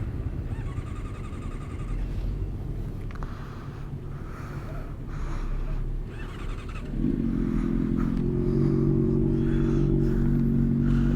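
Low motorcycle engine rumble, then a little past halfway a Honda CBR600RR's inline-four catches and settles into a steady, louder idle. The bike has been reluctant to start, which the owner puts down to a run-down battery, probably from the cold.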